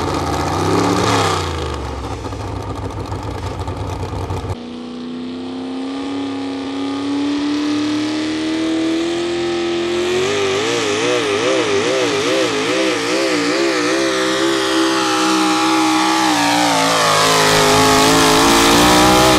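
Modified 4x4 pulling truck's V8 engine at full throttle during a pull. It revs up and down for the first few seconds, changes abruptly about four seconds in, then holds a high steady note that wavers up and down in the middle and climbs near the end.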